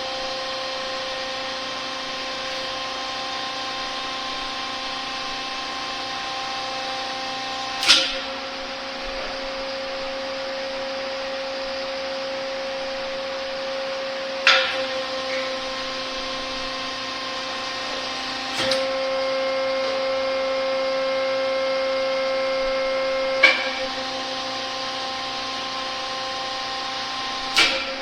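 Hydraulic pump on a test bench running with a steady hum while a hydraulic cylinder is cycled under pressure, with five sharp clunks a few seconds apart; after each clunk the pump's tone shifts slightly as the load changes.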